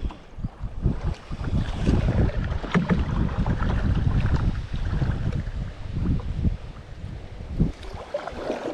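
Wind buffeting the microphone of a canoe on the river, with a gusty rumble and scattered knocks. It grows louder about a second in and eases off after about five seconds.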